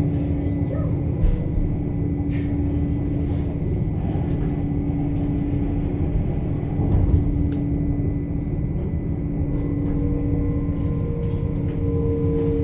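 Passenger train running at speed, heard from inside the carriage: a steady rumble with a constant hum. A higher whine joins near the end, and there are a few faint clicks.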